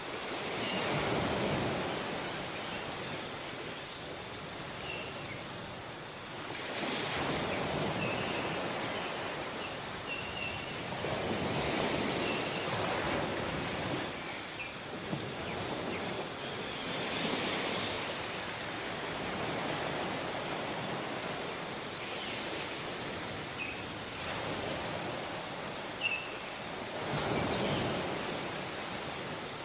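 Waves washing up a tropical beach, rising and falling in slow surges every few seconds, with faint short chirps and a thin steady high tone over the surf.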